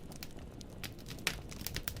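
Wood fire in a fireplace crackling, burning firewood snapping and popping in quick, irregular clicks over a low, soft rumble of flame. There is a louder pop about a second in.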